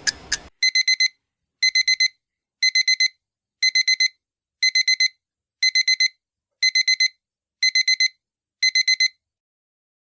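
Countdown timer's ticking stops and a digital alarm beeps in quick sets of four, about one set a second, nine sets in all, signalling that the countdown has run out.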